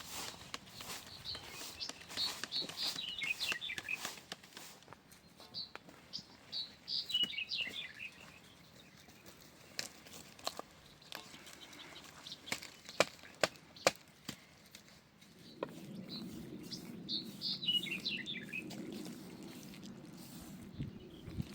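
A songbird singing a quick run of high notes that falls in pitch, three times. Sharp clicks or knocks in the middle, and a low steady rumbling noise from about two-thirds in.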